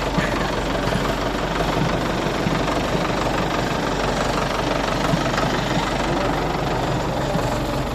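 Tractor engine running steadily while the tractor is driven, at an even level throughout.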